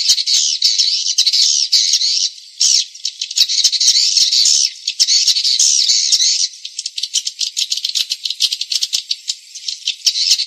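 Swiftlets twittering: a dense, high-pitched chatter of rapid clicks and buzzy trills. This is a recorded swiftlet lure call, the sound played from swiftlet houses to draw the birds in to roost and nest. The chatter thins to scattered ticks briefly a few times.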